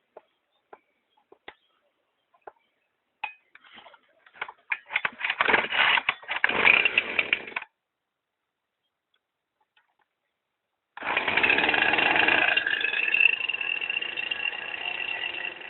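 Husqvarna 455 Rancher 55.5 cc two-stroke chainsaw being started from cold: after a few light clicks, it catches and runs raggedly for about three seconds, then cuts out suddenly. After a pause of about three seconds it starts again, runs fast and loud for a second or two, then drops to a lower, steady idle.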